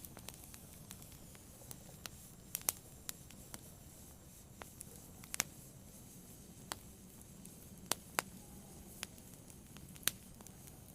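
Fire crackling: irregular sharp pops and snaps, a few louder than the rest, over a soft steady background.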